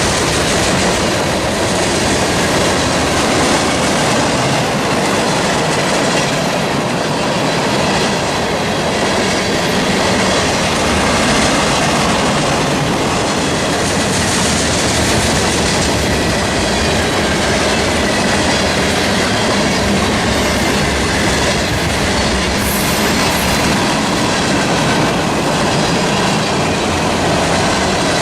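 A long freight train's cars rolling past close by, a steady loud rumble of steel wheels on rail with rhythmic clickety-clack over the rail joints.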